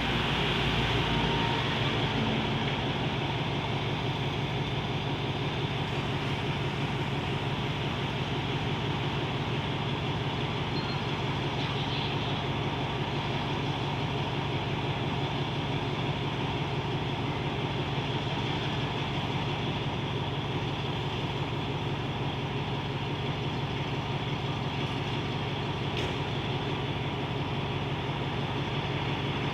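Alsthom diesel-electric locomotive's engine running steadily with a constant low hum, typical of the locomotive standing at the platform.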